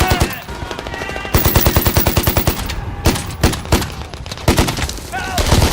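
Film battle gunfire: automatic weapons firing in rapid bursts, the longest lasting about a second and a half, followed by scattered single shots.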